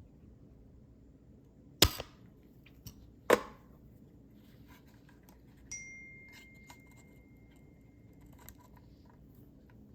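A spring-loaded solder sucker fires twice with sharp snaps, pulling molten solder off a relay pin on a circuit board. A few light clicks and a faint, thin high tone lasting about three seconds follow.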